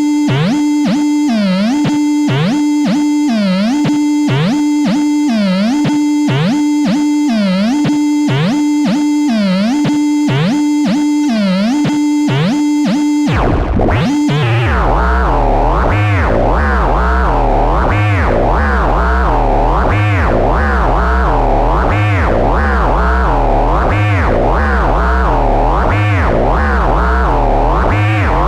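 Arturia Buchla Easel software synthesizer: a steady buzzy tone broken by regular downward pitch swoops, about one a second. About halfway it switches to a denser, bass-heavy patch whose overtones sweep up and down in a repeating wobble.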